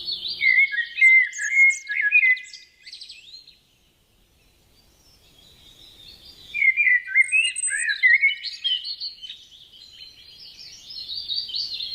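Songbird singing rapid, varied chirping phrases in two bouts, with a short lull between them.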